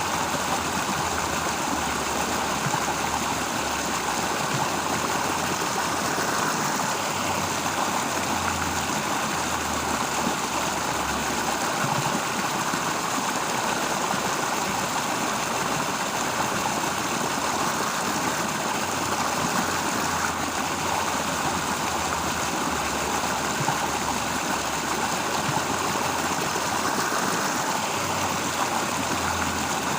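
Steady rushing of a stream, with an unbroken hiss and a low, wavering rumble underneath.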